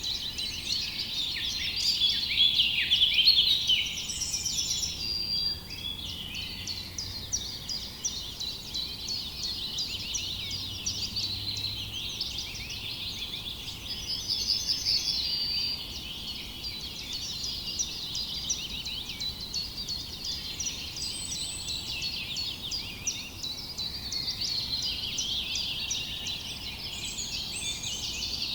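Many small songbirds chirping at once in a dense, continuous chorus, with buzzy trilled calls standing out at about four seconds in and again at about fourteen seconds.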